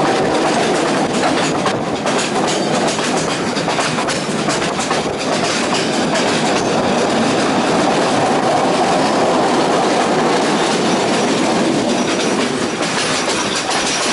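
Passenger train running steadily along the line, heard from aboard a carriage: a continuous rumble of wheels on rails with occasional clicks.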